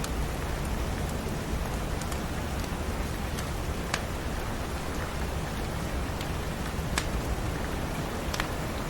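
Steady rain with a few sharp pops from a crackling wood fire in a fireplace.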